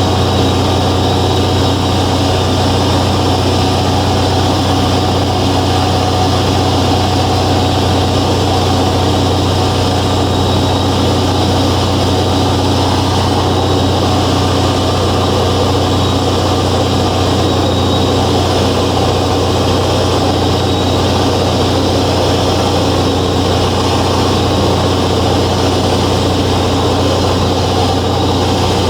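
The 180 hp piston engine and pusher propeller of a Velocity S-FG kit airplane running at a steady speed, heard from inside the cabin: a loud, unchanging drone with a strong low hum.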